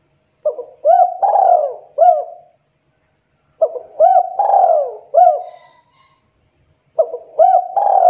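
Spotted dove (tekukur) cooing: three phrases of four or five notes each, a short note followed by longer arching coos, repeated every three seconds or so.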